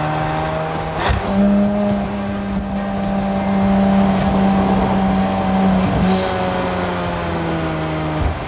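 Porsche 718 Spyder RS's 4.0-litre flat-six engine running at steady revs while driving. Its pitch steps up about a second in and back down near six seconds, with a brief sharp noise at each change.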